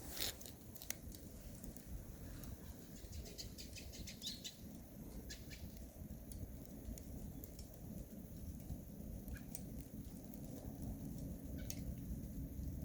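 Wood fire burning in a Solo Stove, giving off scattered small crackles and pops over a low rumble, with a quick run of crackles about three to four seconds in.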